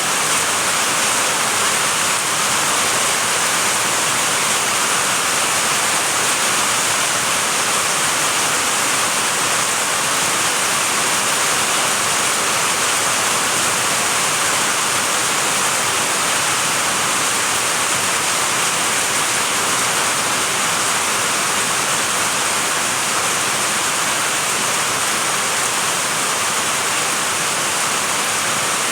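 Steady heavy rain, a constant, even hiss.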